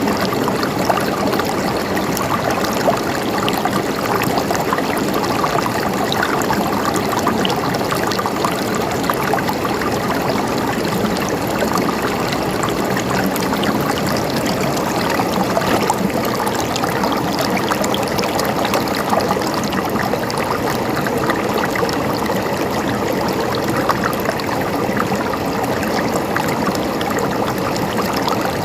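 River water flowing steadily over rocks, a constant rushing and babbling with small splashes.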